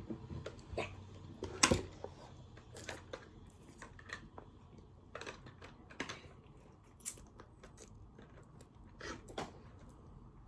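Irregular small clicks and taps from plastic toys being handled, the loudest about two seconds in.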